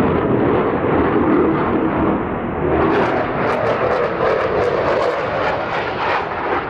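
Loud jet noise from an F-22 Raptor's twin Pratt & Whitney F119 turbofans as it maneuvers in a flying display, with a rough crackle from about three seconds in.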